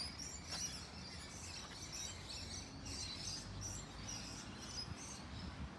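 Faint bird chirps over low, steady background noise.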